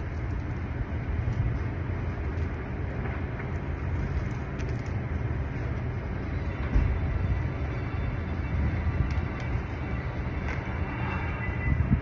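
Wind buffeting the microphone: a steady low rumble that rises and falls with the gusts.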